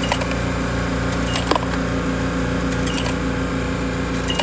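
Steady machine hum, a motor or engine running at a constant pitch, with a few short sharp clicks and metallic clinks about a second and a half apart.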